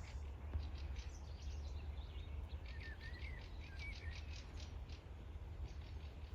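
Small birds chirping: many short, quick high calls, with a few sliding chirps in the middle, over a steady low rumble.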